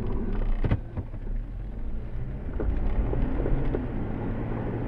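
Jeep engine running at low revs with a steady low hum, hot enough that its radiator fan has come on. A single sharp knock sounds about 0.7 seconds in.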